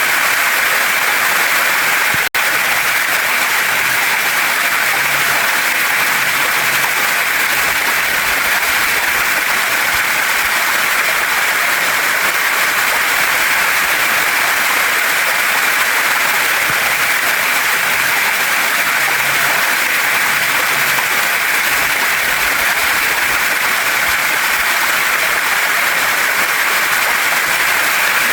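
Waterfall and stream water rushing steadily over rocks, an even hiss-like roar with a momentary dropout about two seconds in.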